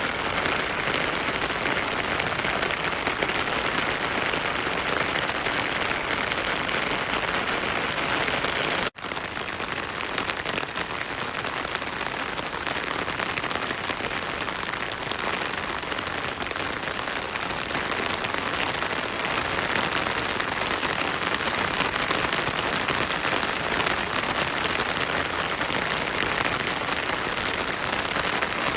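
Heavy rain falling steadily in a forest, a dense, even patter of drops. The sound cuts out for an instant about nine seconds in.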